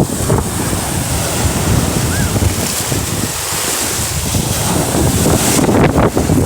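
Strong wind buffeting the microphone in uneven gusts, over the wash of sea waves.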